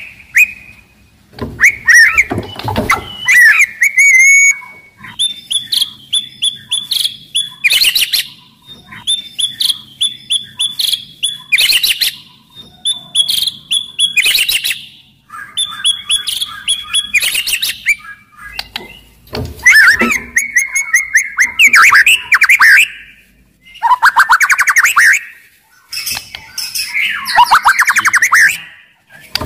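White-rumped shama (murai batu) in loud, aggressive full song. It delivers runs of fast repeated high notes, then denser chattering, rattling phrases, each broken by short pauses.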